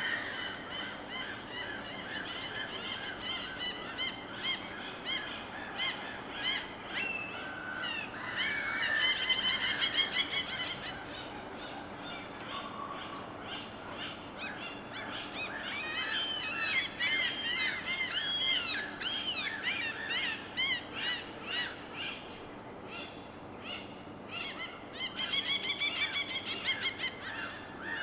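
Birds calling repeatedly in clusters of short, harsh, honking and cawing calls, over a steady background noise. The calls come thickest about a third of the way in, in the middle, and near the end.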